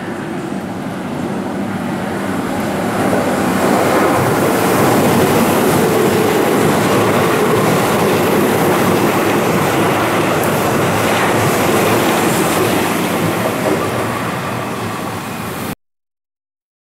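Keihan 3000-series electric train passing through a station at speed without stopping: a steady rush of wheels on rail that grows louder over the first few seconds, holds, then eases slightly before cutting off suddenly near the end.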